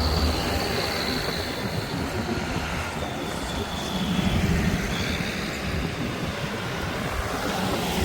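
Tractor running steadily, with a faint high whine above the engine noise.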